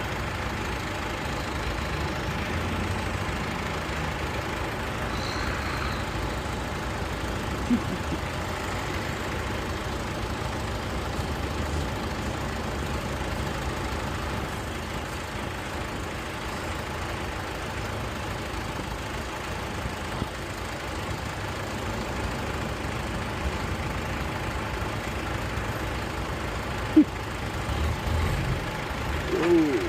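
Several tractor engines running steadily as the tractors move off in convoy, with a short sharp knock near the end.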